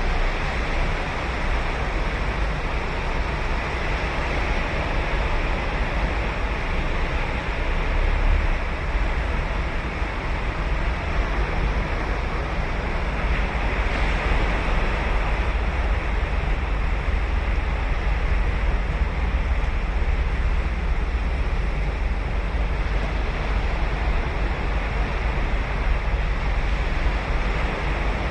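Ocean surf washing onto a beach: a continuous wash of breaking waves with a deep low rumble underneath and no single standout crash.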